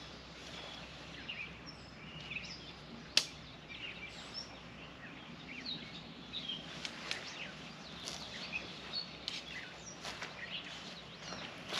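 Birds chirping and calling over a faint steady outdoor background, with one sharp click about three seconds in.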